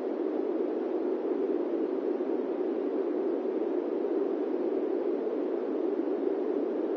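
Steady airplane-cabin ambience noise: an even, deep hush with no engine tones, clicks or changes.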